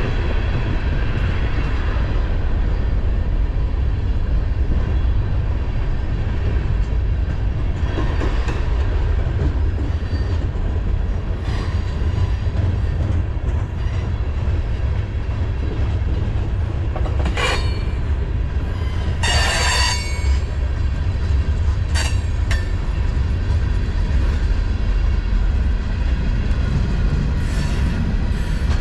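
Mixed freight train cars rolling past, a steady loud rumble of wheels on rail, with brief high-pitched wheel squeals about 17 s in, again around 19 to 20 s in, and a short one near 22 s.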